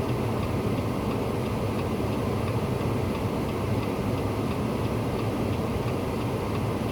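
A vehicle engine running steadily, with a faint, regular ticking over it.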